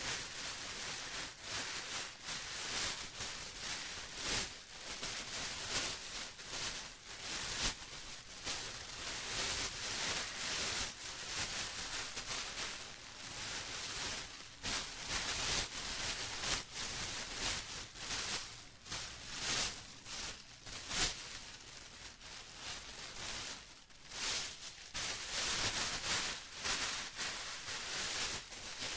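Plastic being crumpled and rustled by hand: a continuous crinkling and crackling in irregular waves that swell and fade every second or so.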